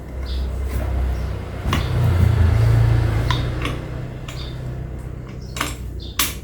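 Plastic electric-fan parts being handled and fitted together, with scattered clicks and knocks, two sharper ones near the end, over a low rumble that swells a couple of seconds in and then eases.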